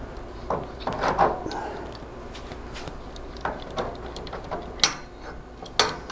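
Irregular metal clicks, knocks and short scrapes of a hand tool working an exhaust hanger under a pickup truck, with two sharper knocks near the end.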